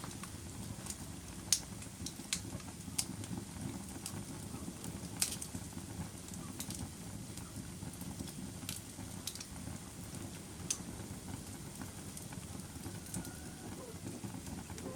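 Wood fire crackling in a fireplace: a steady low rustle of burning with irregular sharp pops and snaps, the loudest every second or two in the first half.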